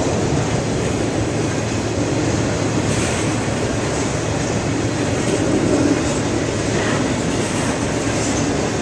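Freight train of autorack cars rolling past at speed: a steady rumble and rattle of steel wheels on rail and of the car bodies.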